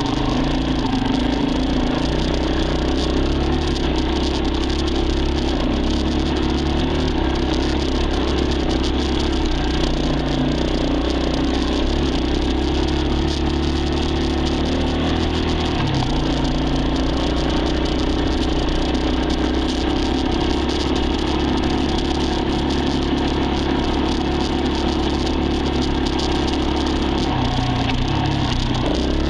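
Dirt bike engine running at a steady speed, its pitch shifting briefly about halfway through and again near the end.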